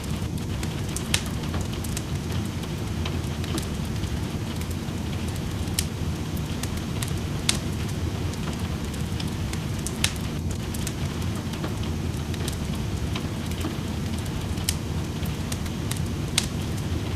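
Wood fire in a fireplace crackling, with scattered sharp pops every second or two, over a steady sound of rain.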